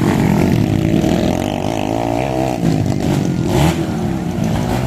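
Motorcycle engine running and revving, its pitch rising and falling, with a brief rush of noise about three and a half seconds in.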